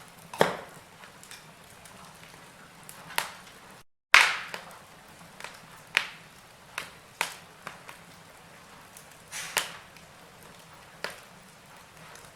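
Wood fire burning in a fireplace, crackling with sharp pops every second or two over a faint steady hiss. The loudest pop comes about four seconds in, right after a very short drop to silence.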